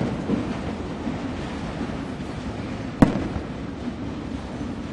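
Aerial firework shells going off at a display: one sharp, echoing bang about three seconds in, over a steady rumble of background noise.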